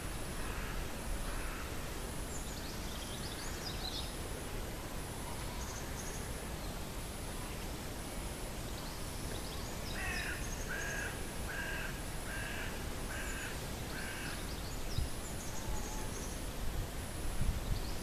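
Birds calling outdoors over a steady low background rumble. About ten seconds in, one bird gives six short calls in an even series, a little under a second apart; small birds chirp high now and then.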